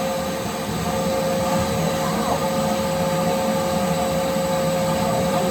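Vacuum cleaner running steadily with a constant whine, sucking soil and debris out of a hole in a floor.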